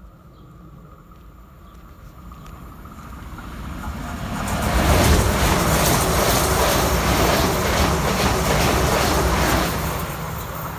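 A train passing by on the rails: its noise builds for a few seconds, runs loud for about five seconds, then starts to fade near the end.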